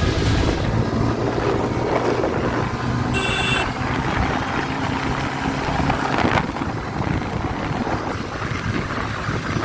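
Wind buffeting the microphone over the steady noise of a moving vehicle, with a brief high-pitched tone about three seconds in.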